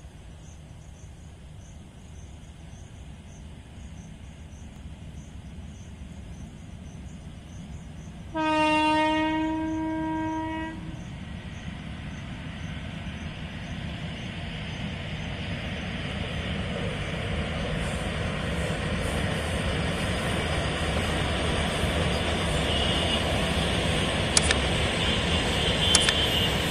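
Indian Railways coal freight train approaching and passing: the locomotive sounds one long horn blast of about two seconds about a third of the way in. After it the rumble of the locomotives and open wagons grows steadily louder as the train draws near, with two sharp clicks near the end.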